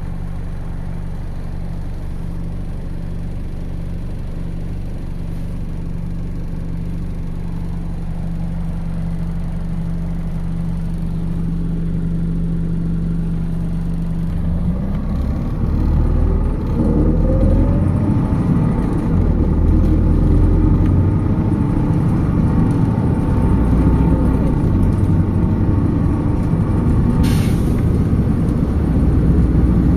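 MAZ 206 city bus's diesel engine idling steadily, then about halfway through the bus pulls away: the engine note rises as it accelerates and the running rumble grows louder. A short hiss of air sounds near the end.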